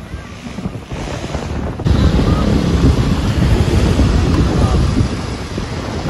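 Wind buffeting the microphone, a rough low rumble that gets louder about two seconds in.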